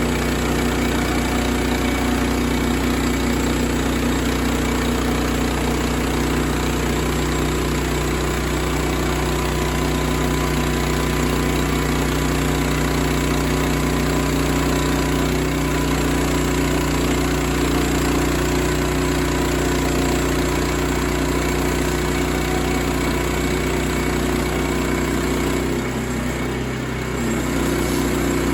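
Sawmill engine running steadily, with a short dip in level and a slight drop in pitch near the end.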